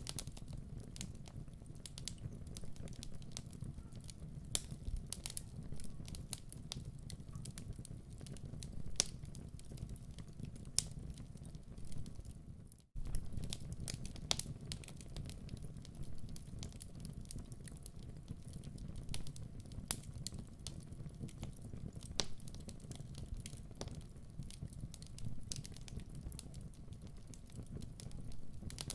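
Wood fire burning in a hearth: a steady low rumble of flames with frequent irregular crackles and pops from the logs. The sound cuts out for an instant about 13 seconds in.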